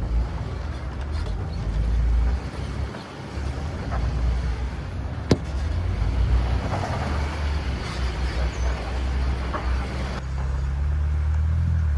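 Off-road vehicle engine running with a steady low rumble, with a hiss over it that drops away near the end. A single sharp click a little past the middle.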